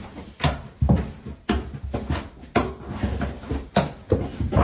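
A series of irregular knocks and thumps, about two or three a second.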